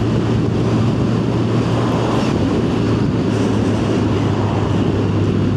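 Yamaha FZ1 motorcycle's inline-four engine running at steady revs while riding, with one even engine note under a constant wash of wind and road noise.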